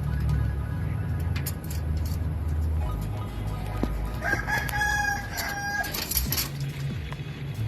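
A bird gives one long, steady, drawn-out call a little over four seconds in, lasting about a second and a half. A low hum runs underneath for the first three seconds, then stops.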